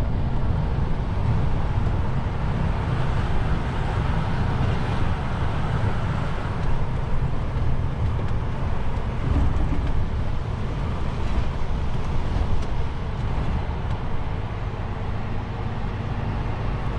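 DAF XF truck driving: a steady low engine and road rumble with no distinct events.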